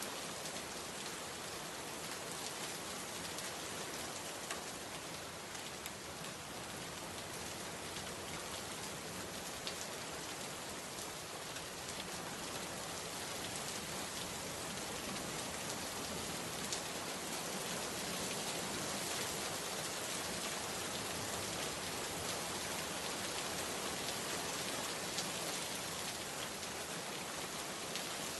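Steady rainfall: an even hiss of rain with scattered individual drops ticking, growing slightly heavier in the second half.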